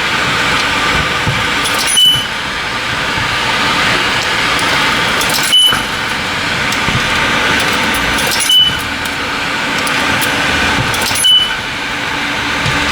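Coins being fed one at a time into a self-serve car wash bay's coin machine: four times, a few seconds apart, a coin drops in with a click and the machine gives a short high beep. A steady rushing noise runs underneath.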